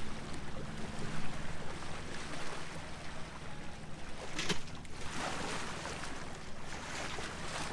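Water rushing along a moving sailboat's hull over a steady low engine hum, with a short sharp puff about four and a half seconds in and a hiss just after: a dolphin surfacing to breathe beside the boat.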